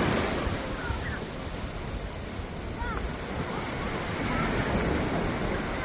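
Sea waves breaking and washing up a beach, with a surge at the start and another swell building in the second half.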